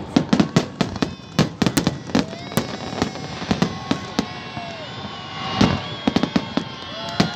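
Aerial fireworks salute going off: a quick, irregular run of sharp bangs and crackles, with several long whistling tones among them.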